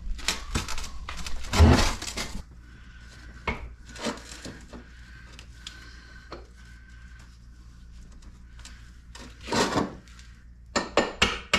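Metal parts and tools clinking and knocking on a workbench as a piston wrist pin and connecting rod are fitted together. A cluster of clatter comes first, then a quieter stretch of light clicks, a louder scraping burst a little before the end, and more clicks at the end.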